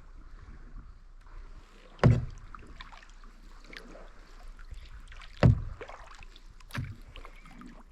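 Kayak paddling: a steady faint wash of water, broken by two loud knocks of the paddle against the kayak about three and a half seconds apart, and a softer third knock near the end.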